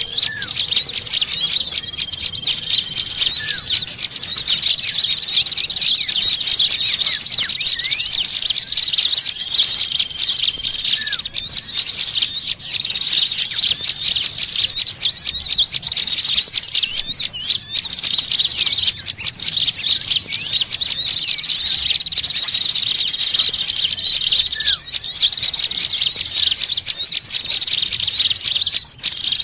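Dense, noisy chorus of many small birds chirping and twittering without a break, high-pitched, with a lower rising note now and then: a bird-lure (pikat) recording of agitated small birds.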